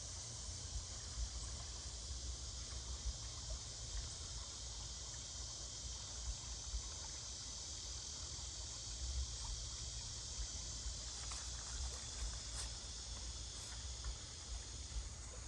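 A steady high-pitched chorus of insects shrilling in the evening woods, over a low rumble and a few faint ticks.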